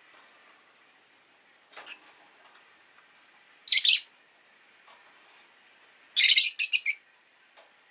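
Rosy-faced lovebirds chirping: a soft call about two seconds in, a loud short chirp near four seconds, and a quick run of three loud chirps near the end.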